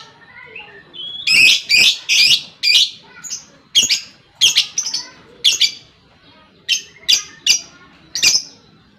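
Lovebird giving its shrill 'ngekek' chatter: a run of about a dozen short, sharp calls in quick clusters with brief pauses, starting about a second in.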